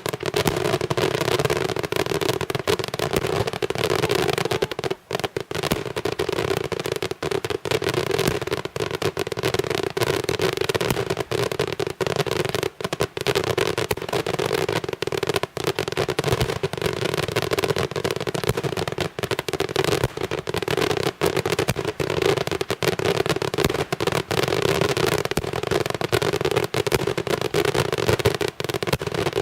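Daytime fireworks firing a continuous, dense barrage of rapid bangs and crackling that does not let up.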